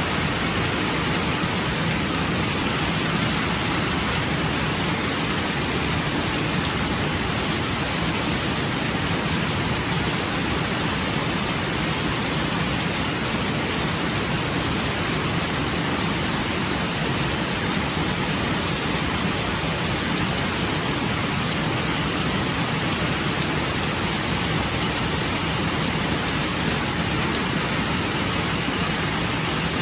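Steady rain falling, an even unbroken hiss of water with no pauses or separate strikes.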